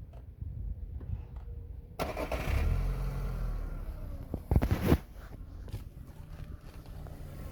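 Skoda Octavia II's 1.6 BSE petrol engine running. It gets louder about two seconds in, and there is a short loud burst near the middle.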